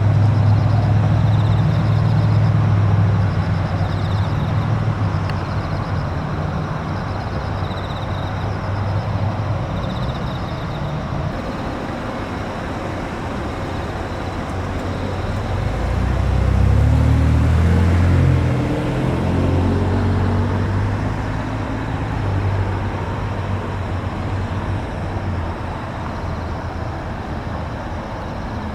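Car engines running with a low rumble that fades over the first few seconds; about halfway through, a car's engine note rises as it accelerates away, then settles into steady traffic noise.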